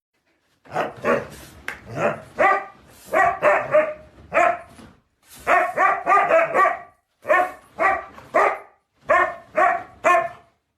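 A dog barking repeatedly in quick runs of two to four barks, starting about a second in.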